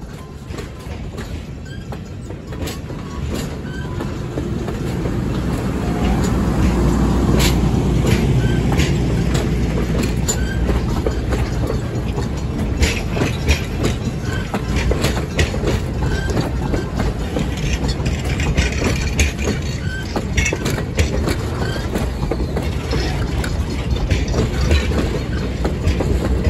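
Heritage passenger coaches rolling past close by: a steady rumble of steel wheels on rail with repeated clicks as the wheels cross rail joints, growing louder over the first several seconds.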